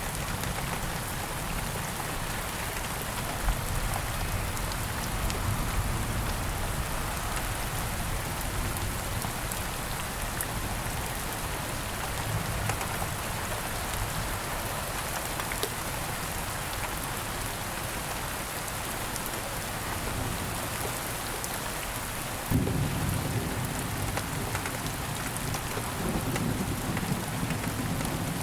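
Steady rain falling in the woods, with a low rumble of thunder coming in suddenly near the end.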